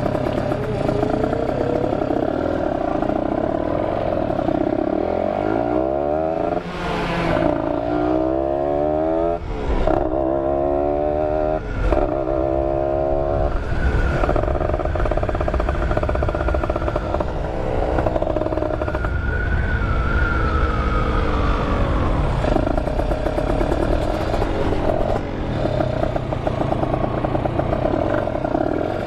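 Two-stroke Kawasaki Ninja 150RR motorcycle engine running under way, revving up again and again as it is worked through the gears, with several quick rising sweeps about five to fourteen seconds in and another near the twentieth second.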